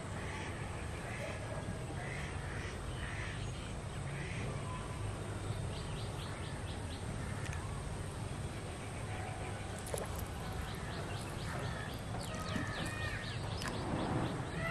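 Birds calling outdoors: a series of short calls in the first few seconds, then runs of rapid repeated calls around the middle and again near the end, over a steady low background rumble.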